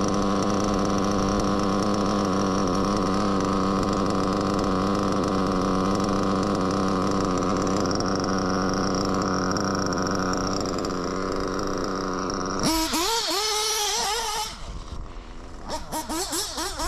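Reds nitro RC engine, fitted with new bearings, idling steadily and evenly. About 13 s in the sound changes abruptly to a pitch that rises and falls, and it gets quieter after that.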